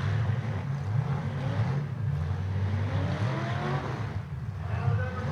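Engines of bone-stock demolition derby cars running hard on the track, with revs rising a few times from about halfway through.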